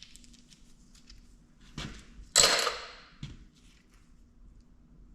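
Small clicks and knocks of metal engine parts being handled, with one loud metallic clatter about two and a half seconds in and a last knock just after.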